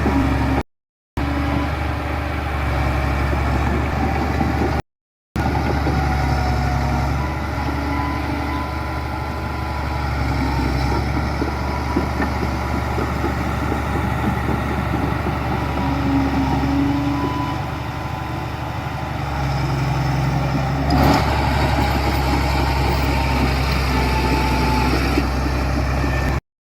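Heavy diesel engines of bulldozers and dump trucks running steadily at a worksite, with one sharp metallic knock about three-quarters of the way through. The sound cuts out briefly twice near the start.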